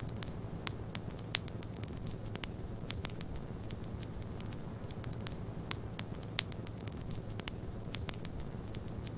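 Wood fire crackling, with frequent small sharp clicks and two louder pops, over a steady low rumble of snowstorm wind.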